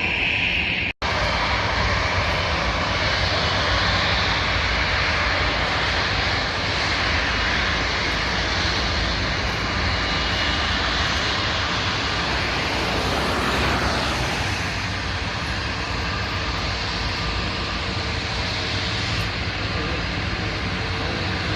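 Airliner jet engines running loud and steady as an aircraft moves at the airport, with a sweep in pitch near the middle as it passes. The sound drops out for an instant about a second in.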